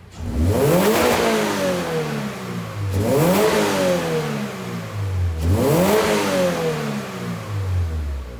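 Toyota GR86's 2.4-litre flat-four exhaust through a GR Sport muffler, revved three times from idle: each rev climbs quickly and then falls slowly back to idle over about two seconds.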